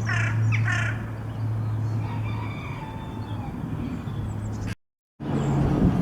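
Crows and jackdaws calling: a quick run of harsh calls in the first second, then fainter bird calls, over a steady low hum. The sound cuts out for a moment near the end.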